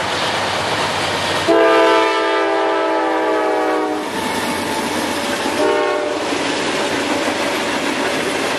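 Norfolk Southern freight diesel locomotive's multi-chime air horn: one long blast, then a short one, over the steady rumble and wheel noise of the moving train. With a long blast just before and another just after, the pattern fits the long-long-short-long grade crossing signal.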